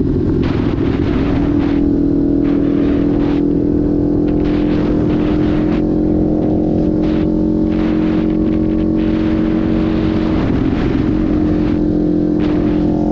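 Kawasaki Ninja 500 parallel-twin engine running at steady revs while the bike is ridden, its note stepping up in pitch right at the start. Uneven wind rush on the microphone runs over it.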